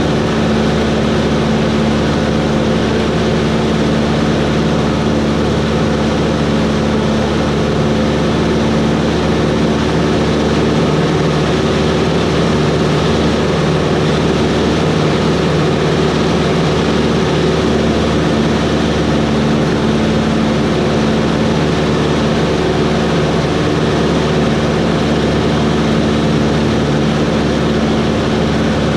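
Cessna 140's piston engine and propeller running at a steady drone with even power.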